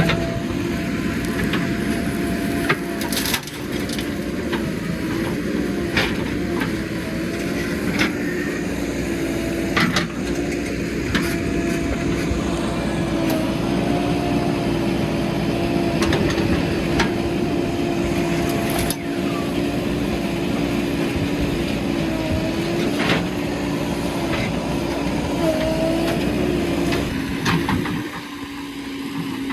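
JCB backhoe loader's diesel engine running under load, its pitch holding and wavering up and down as the machine works, with sharp knocks and cracks scattered through. Near the end the engine drops to a lower, quieter running.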